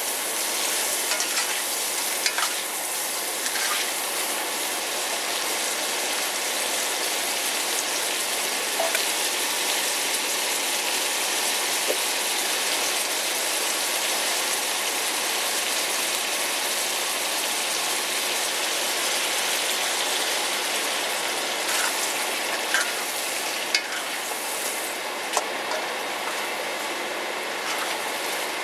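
Shrimp and garlic sizzling steadily in a hot wok as they are stir-fried, with the spatula clicking and scraping against the pan now and then.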